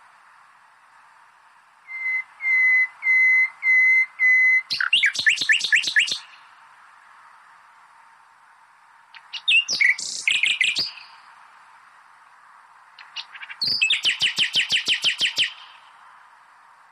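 Nightingale singing in separate phrases a few seconds apart: one opens with a clear note repeated about five times, then a fast trill follows, and later phrases are quick runs of rapid repeated notes. A faint steady hiss continues between phrases.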